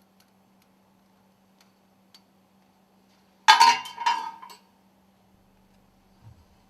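Metal stuffing-box ring segments clinking together in a short clatter of about a second midway, with a few faint light clicks before it and a low thud near the end.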